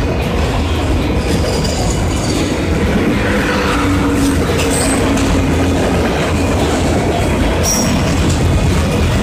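Freight train of autorack cars rolling past close by: a loud, steady rumble and rattle of wheels on the rails, with brief high-pitched wheel squeals a few times.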